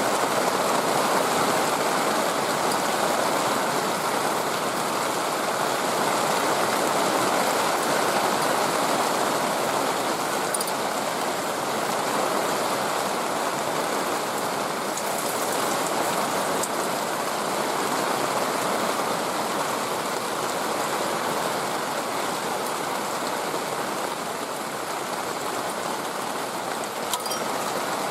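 Steady hiss of water noise, like rain falling, with a couple of faint ticks.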